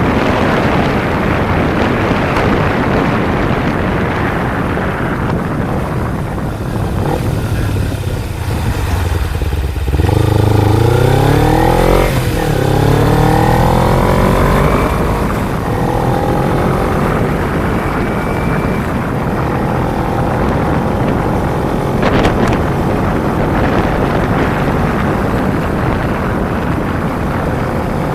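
Kawasaki Ninja 250 parallel-twin engine with heavy wind rush on the microphone. The wind drowns the engine at first; about ten seconds in the engine pitch climbs in steps as the bike accelerates through the gears, then settles to a steady cruise, with a short sharp click partway through.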